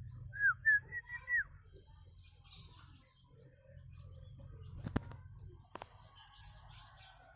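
Nias hill myna whistling a quick run of about five short notes, each a clear slur that rises and falls, in the first second and a half. A single sharp click comes about five seconds in.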